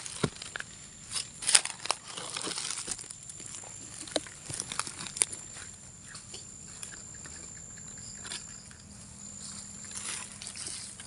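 Footsteps crunching and rustling through dry fallen leaves, with sharp crackles and snaps that are thickest in the first half and sparser later.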